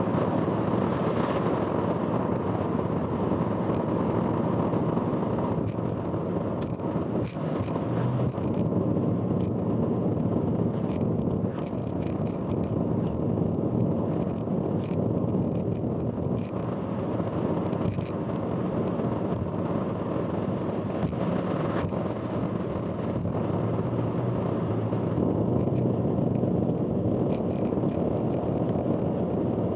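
Steady road and engine noise of a car driving on an expressway, heard from a vehicle-mounted camera, with many sharp clicks and rattles scattered throughout: the loud abnormal noise the uploader warns about.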